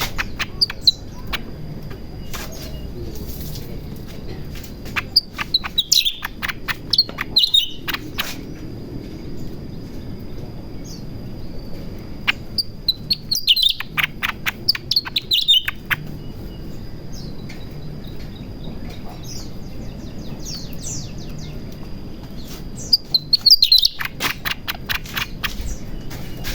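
A cucak ranting bird in breeding condition (birahi) singing in several bursts of quick, falling chirps, separated by pauses of a few seconds. A faint steady high tone runs underneath.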